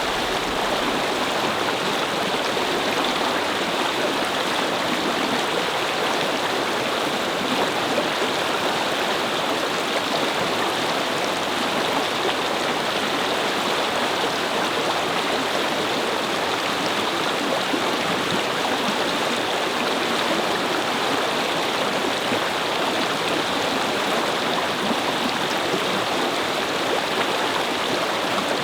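Brook babbling: water running over stones in a steady, even rush.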